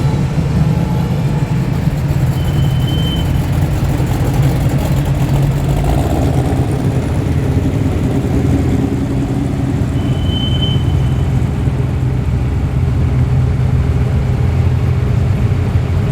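Several muscle car engines, loud, rumbling at low speed as a line of cars rolls past.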